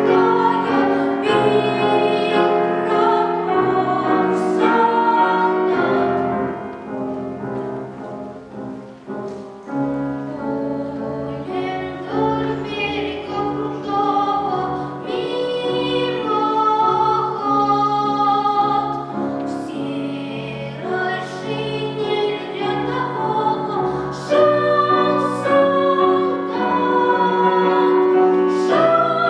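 A child singing in classical (academic) style with piano accompaniment, the voice held in long notes with vibrato. It drops quieter for a few seconds near the middle, then comes back up.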